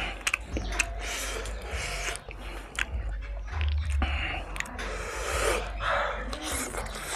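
Close-up chewing and smacking while eating fried pork and rice by hand, with wet clicks and squishes from the mouth and the rice being mixed on the plate, over a steady low hum.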